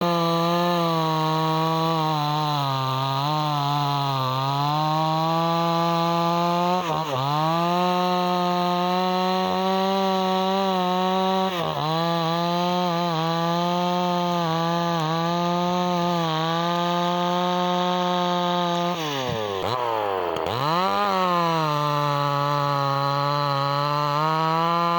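Two-stroke chainsaw engine running at high revs with a steady high note. The revs sag sharply and climb back about seven seconds in, again near the middle, and twice in quick succession near the end.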